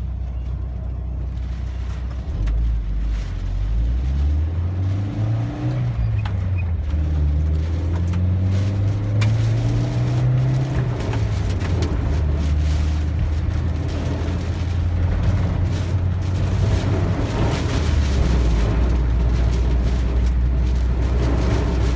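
Car engine accelerating, its low hum climbing in pitch for several seconds, then easing off and running steadily, with rushing road and wind noise growing louder near the end.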